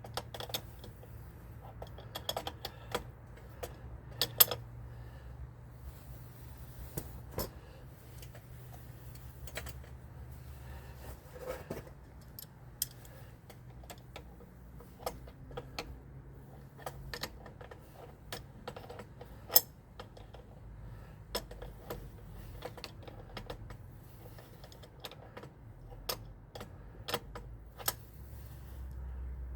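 Oil draining from the 1965 Ford Thunderbird into a catch can: faint pouring with scattered, irregular ticks and clinks.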